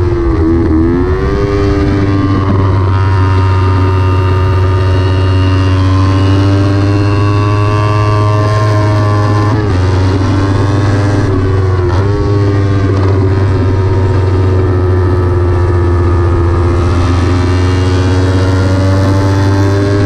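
Kawasaki Ninja 300's parallel-twin engine running hard on track. Its pitch rises and falls as the rider works the throttle and gears, with short breaks at gear changes about ten and twelve seconds in.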